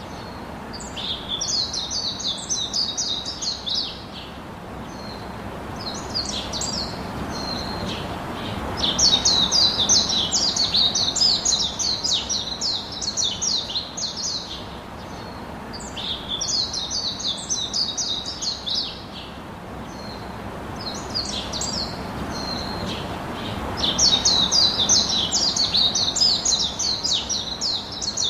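A songbird singing: phrases of rapid high notes a few seconds long, repeated several times with short pauses between, over a steady background hiss.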